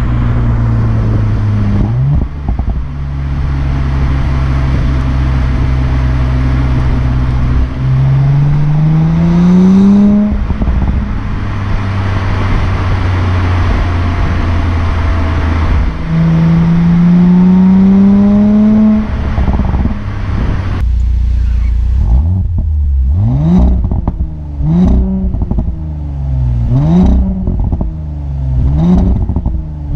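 Audi S4 Avant engine and exhaust, cruising steadily with two hard acceleration pulls in which the pitch rises. Then come about five quick rev blips, one every two seconds or so, each ending in a sharp crackle from the exhaust.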